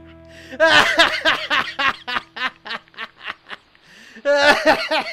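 A man laughing hard in rapid bursts of ha-ha pulses, in two bouts: one about a second in and a louder one near the end.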